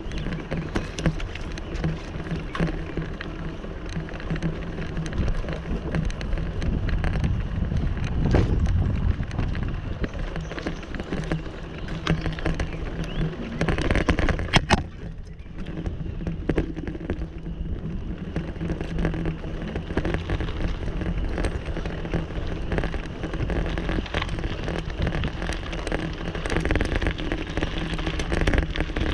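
Riding noise of a bicycle on a trail: a continuous crackling rattle with a heavy low rumble, and one sharp click about halfway through.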